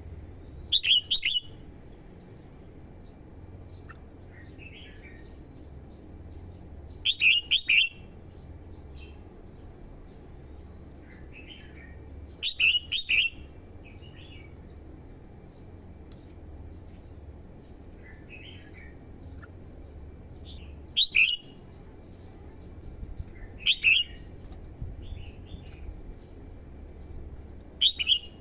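Red-whiskered bulbul singing short, loud phrases of quick notes, six of them a few seconds apart, with softer notes in between.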